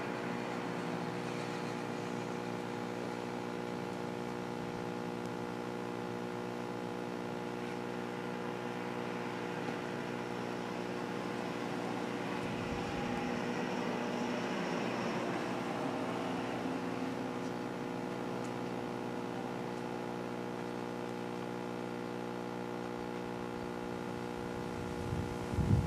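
Steady hum of an idling car engine, made of several held tones that do not change. A louder low rumble comes in just before the end.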